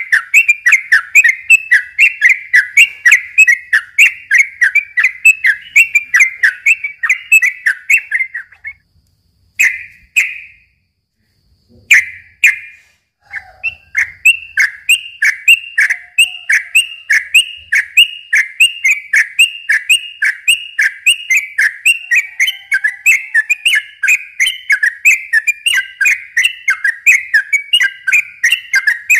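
Yellow-vented bulbul (trucukan) singing a long, fast run of short repeated whistled notes, about four or five a second. The song breaks off about nine seconds in for a few seconds, with only a couple of stray notes, then runs on again.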